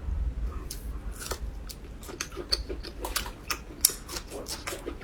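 Close-up eating sounds of seafood: irregular sharp clicks and wet smacking of chewing, growing busier about two seconds in.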